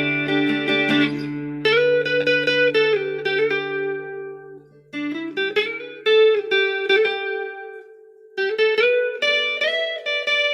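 Acoustic guitar played through a Spark Go mini amp set for acoustic tone: a ringing chord at first, then short picked melodic phrases separated by brief pauses, with some notes sliding up in pitch.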